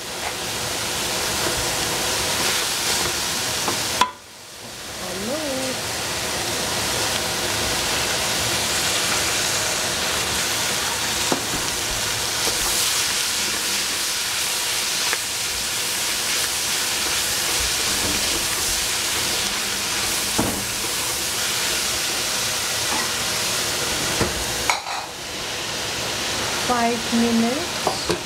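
Vegetables frying in a hot pan with a steady sizzle as they are stirred. There is a sharp knock about four seconds in, after which the sizzle drops briefly and builds back up.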